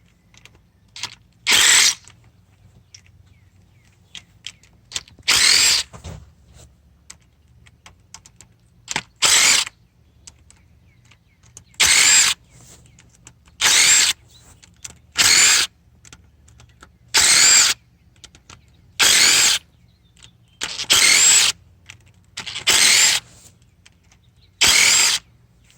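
Power tool running in about eleven short bursts, each under a second, spaced a second and a half to four seconds apart: 8 mm bolts being run out on a 6.7 Powerstroke diesel engine during teardown.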